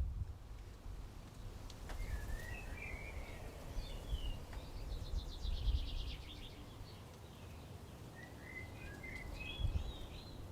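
Birdsong over a steady low rumble: a warbling phrase about two seconds in, a fast high trill around the middle, and another warbling phrase near the end.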